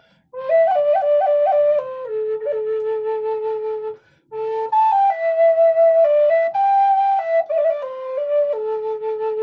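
A flute playing a slow melody of held notes with a few quick flourishes. The melody comes in two phrases, with a short pause for breath about four seconds in.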